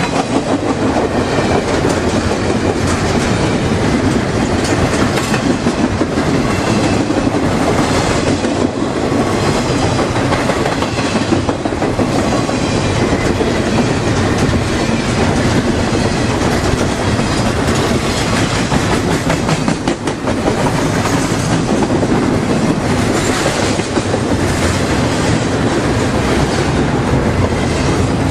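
Freight train rolling past at close range: a steady, loud rumble of wheels on the rails with the clickety-clack of wheels over rail joints.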